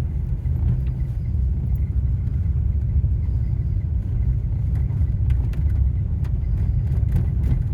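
Low, steady rumble of a vehicle driving along an unpaved road, with a few faint clicks and rattles from about five seconds in.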